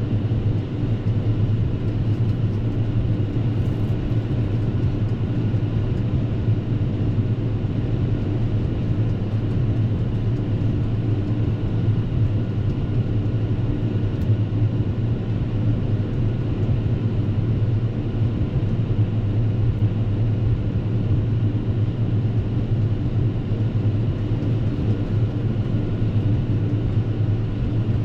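Fendt 724 tractor and its Pöttinger Alphamotion front mower and Krone B950 Collect mower combination running steadily while mowing grass, a constant deep engine hum with steady whining tones from the drives above it.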